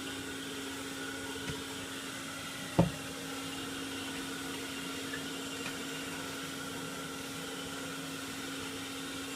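Old Soviet vacuum cleaner running with a steady hum at one pitch. A single sharp knock comes about three seconds in.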